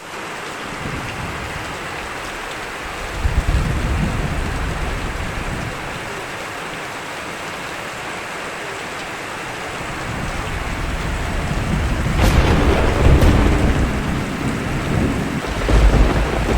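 Steady rain falling, with thunder: a low rumble about three seconds in, a sharp crack about twelve seconds in followed by rolling rumbles, and another deep rumble near the end.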